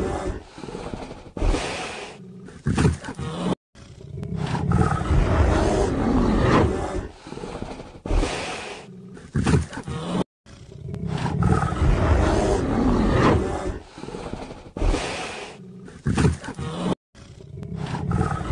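Polar bear growling and roaring. The same rough call repeats about every six and a half seconds, with a sudden brief cut to silence between repeats.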